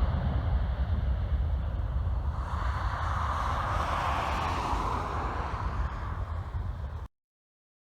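Boeing 737 jet engines at takeoff power: a roar that swells about two and a half seconds in and fades again, over a heavy rumble of wind on the microphone. The sound cuts off abruptly near the end.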